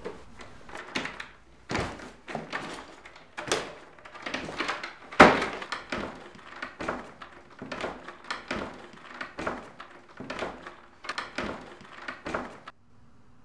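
Irregular wooden thuds and knocks in a small room, a person moving on wooden stairs and at a wooden door. The loudest knock comes about five seconds in, and the knocking stops abruptly near the end.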